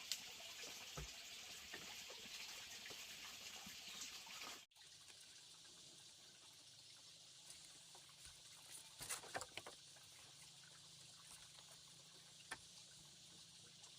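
Faint ambience: a steady high hiss that drops away abruptly about five seconds in, followed by quieter background with a few light clicks and knocks.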